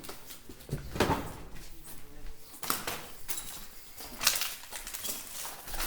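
Debris being handled and stepped on: several separate knocks, crunches and scrapes of burnt rubble as someone rummages through it.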